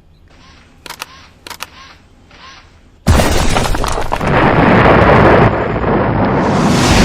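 Action-film sound effects: a few soft swishes and two sharp clicks. Then, about three seconds in, a sudden loud explosion-like boom that goes on as a dense, rumbling roar.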